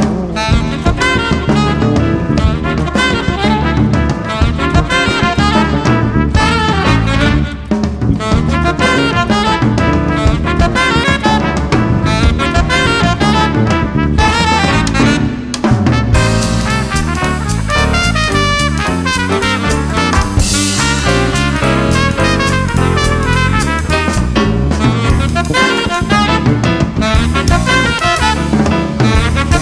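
Swing jazz played by a band with saxophone, brass and drum kit, continuous and lively.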